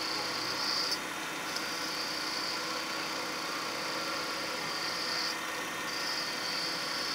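Wood lathe running with a turning tool cutting the spinning pine: a steady hiss of the cut over the lathe's hum, breaking off briefly twice, about a second in and again after five seconds.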